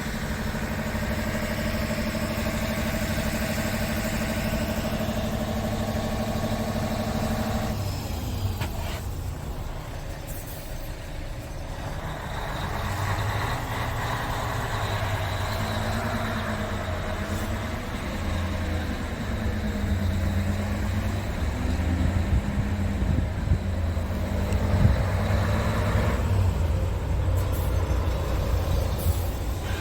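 Scania R450 truck's 13-litre inline-six diesel engine running: a steady idle at first, then about eight seconds in the note changes, and later the engine's pitch rises and falls.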